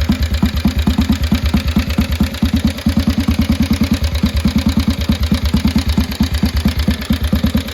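1929 Norton Model 18's single-cylinder overhead-valve engine idling at a steady, even beat of about ten firing pulses a second.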